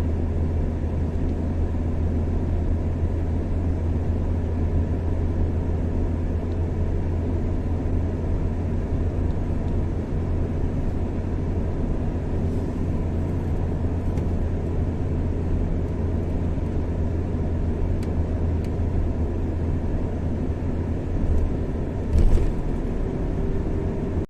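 Car driving at a steady speed: a constant low engine and road drone, with a brief louder thump near the end.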